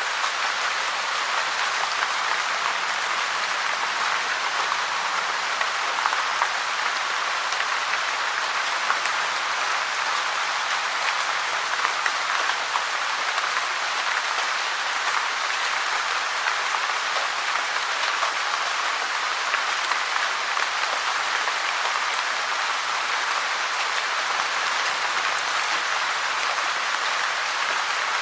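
Steady rain, a dense even hiss of many small drops pattering on a surface.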